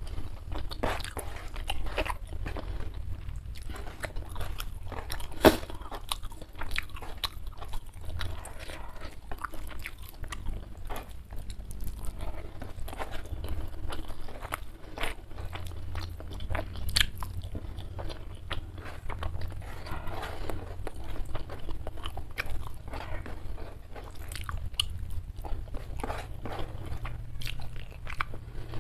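Close-miked chewing of a mouthful of food, with dense crunching clicks and one sharp crunch about five seconds in.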